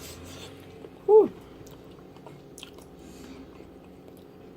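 A person chewing a piece of chicken foot souse, with small wet clicks and smacks of the mouth. About a second in comes one short, loud vocal sound that falls in pitch.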